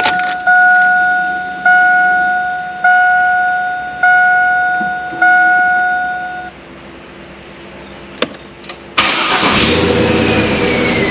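Truck's dashboard warning chime dinging six times, about a second apart, after the ignition key is turned on. About 9 s in the engine starts and runs, with a whine that falls slowly in pitch.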